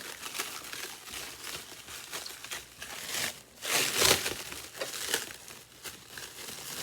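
Packaging being handled and pulled apart in unboxing, crinkling and rustling throughout, with a louder rustle about four seconds in.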